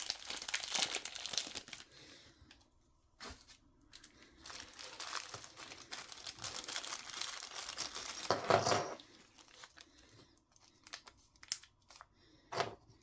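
Plastic parts bag being crinkled and torn open in spells, the loudest rip about eight and a half seconds in, followed by a few light clicks as the small parts are handled.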